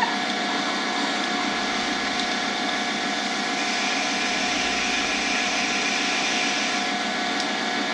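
Lathe running steadily at about 1200 RPM while a drill bit fed from the tailstock bores into the spinning blank: an even whir and hiss with a few steady tones.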